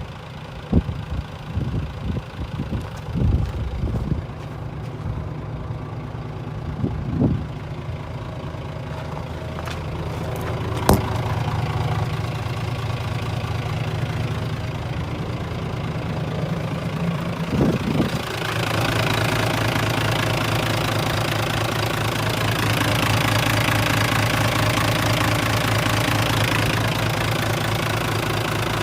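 Mitsubishi Fuso Fighter's 6M61 inline-six diesel engine idling steadily. There are a few knocks in the first several seconds and a sharp click about eleven seconds in. From about eighteen seconds the engine is louder and clearer.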